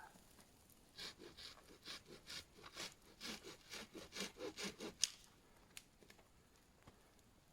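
A hand saw cutting through wood in quick back-and-forth strokes, about three or four a second, that stop about five seconds in with a single sharp crack.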